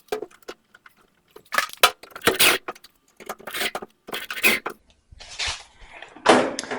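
Irregular clicks, clinks and rattles of sheet-metal dryer panels and loose screws being handled, with a couple of short scraping sounds near the end.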